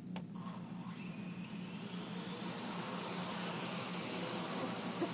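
Parrot AR.Drone quadcopter's four electric rotors spinning up at takeoff and hovering: a whirring hiss with a thin high whine that rises gently in pitch and grows louder from about a second in. A single click sounds just after the start.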